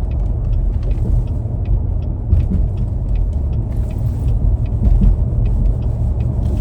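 Car interior while driving: steady low road and engine rumble heard from inside the cabin, with a few faint light clicks.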